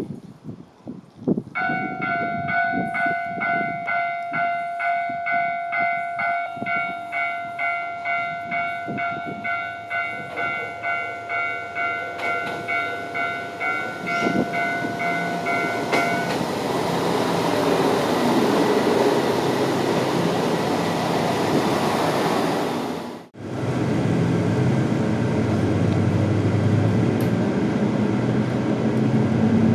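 Japanese level-crossing warning bell clanging evenly, about two strokes a second. Near the middle it gives way to the swelling rush of a diesel train passing. After a sudden break the train's steady running rumble goes on.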